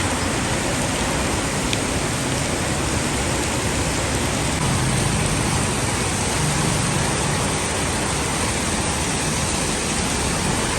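Heavy rain pouring down in a storm: a steady, dense hiss of rain.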